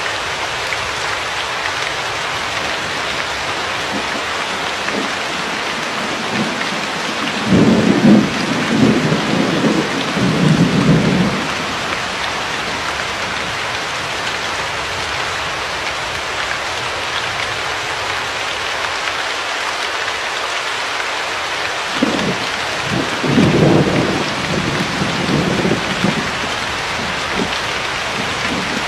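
Steady rain falling, with two rolls of thunder rumbling over it: one about eight seconds in lasting some four seconds, and another about twenty-two seconds in.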